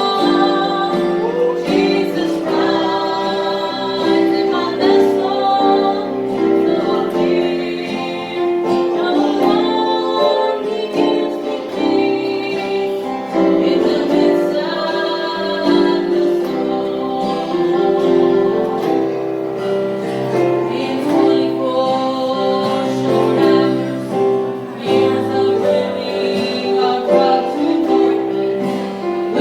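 A gospel song sung live, a woman's voice prominent, with instrumental accompaniment.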